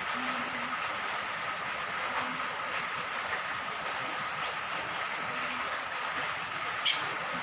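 Steady hiss of falling rain water, with one sharp tick, like a drip, near the end.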